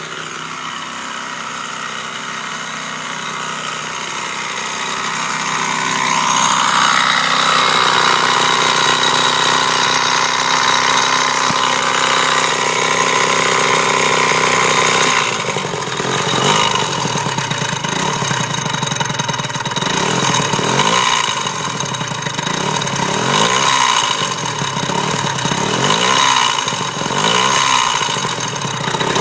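Gilera Runner scooter engine running with a rattle from the alternator area, which the owner suspects is a failed bearing. It idles, rises in speed about six seconds in and holds there, then from halfway through is blipped up and down about once a second.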